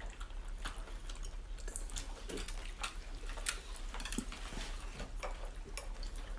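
Irregular light clicks and taps of eating at the table: chopsticks and utensils against bowls and plates.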